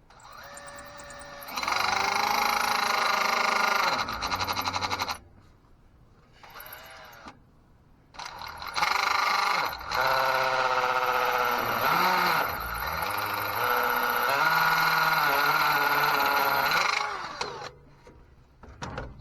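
Electric drill running in bursts while drilling out broken starter mounting bolts: a run of a few seconds, a short burst, then a long run of about nine seconds. Its pitch sags and recovers as the bit bites into the bolt.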